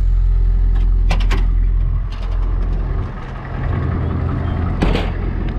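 A diesel tow truck's engine running steadily while it lifts a car, its low hum dipping briefly around the middle. Sharp metallic clanks come about a second in and again near the end.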